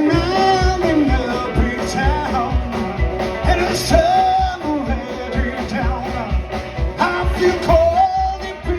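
Rock and roll band playing live, with a steady drum beat and a bending lead melody line over it.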